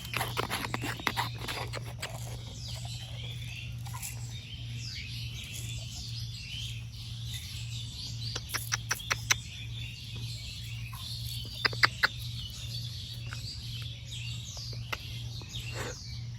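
Many small birds chirping and twittering, with sharp clicks now and then, including two loud ones near the end, over a steady low hum.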